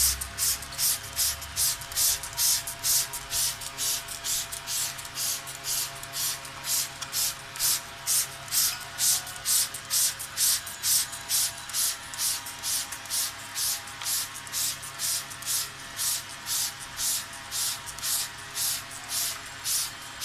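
Hand-pump trigger spray head on a plastic soda bottle squirting a fine mist of water in quick, even hisses, about two to three squirts a second.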